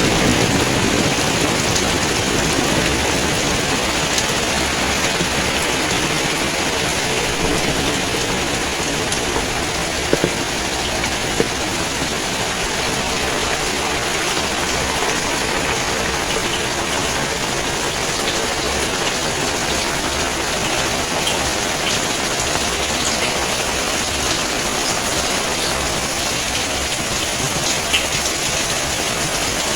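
Steady rain falling, a continuous hiss with a few sharp drip taps, one about ten seconds in and another a second later.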